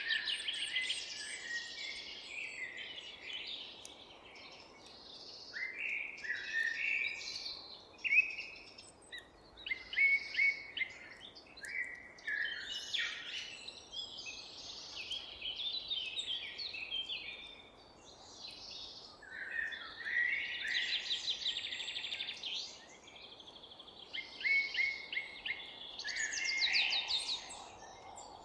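Several songbirds singing and chirping at once, a busy overlapping chorus of short chirps, trills and rapid clicking notes, over a faint steady background hiss.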